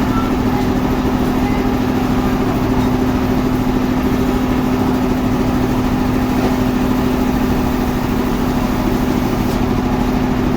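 Sawmill machinery running steadily: a constant, loud engine hum that does not change in pitch.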